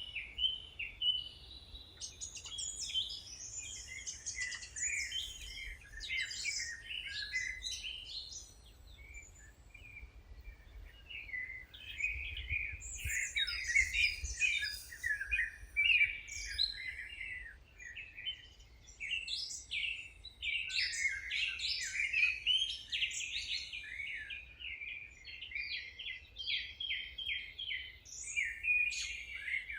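Several songbirds singing and chirping at once in a dense, overlapping chorus of short, high chirps and trills, with a faint low rumble underneath.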